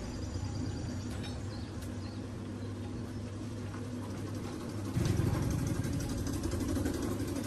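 Engine idling steadily, with a rise in loudness about five seconds in.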